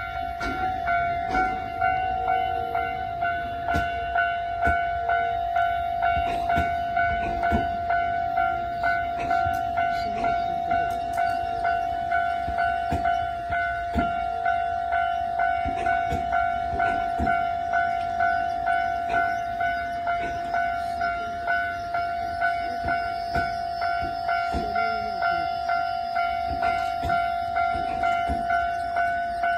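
A railway level-crossing warning alarm rings in a steady repeating pattern, about one and a half beats a second, while a train runs past with scattered clicks.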